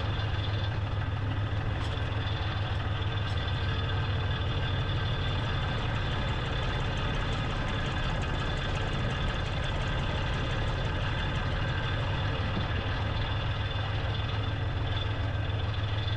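Diesel tractor engine running steadily with a low drone, no change in speed.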